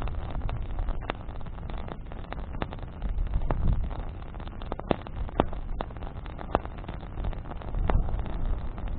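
Campfire of burning branches crackling, with sharp irregular pops scattered over a steady low rumble of flame and wind on the microphone.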